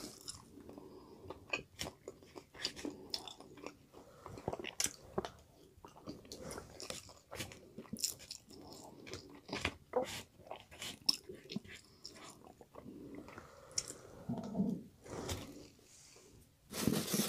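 Close-up chewing of crispy fried chicken: irregular crunches and crackles of the fried breading, going quiet briefly just before the end.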